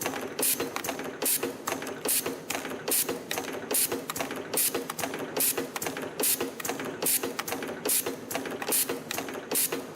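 CNC micro spring-coiling machine forming torsion springs from 1.0 mm wire in a steady cycle. A sharp clack comes about every 0.8 s, one per spring at 72 a minute, with lighter clicks between and a steady motor hum underneath.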